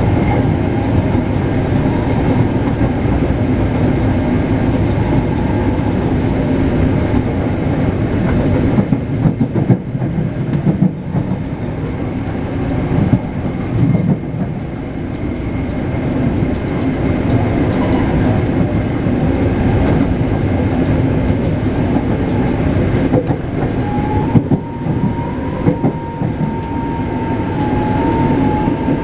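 Taipei Metro C381 train running between stations, heard from inside the car: a steady rumble of wheels on rail with a few sharp knocks about a third of the way in. Near the end a steady whine from the traction motors sets in.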